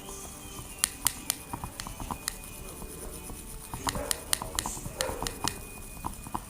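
Homemade slime being stirred in a container, giving irregular sticky clicks and pops, in a cluster about a second in and a denser run from about four to five and a half seconds in.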